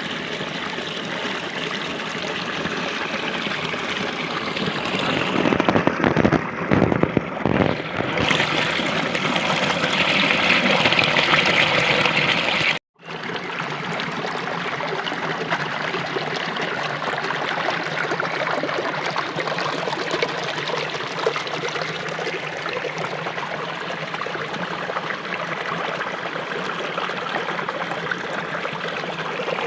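Running water rushing steadily, like a stream. It swells louder for a few seconds, cuts out abruptly for a moment about 13 seconds in, then carries on as before.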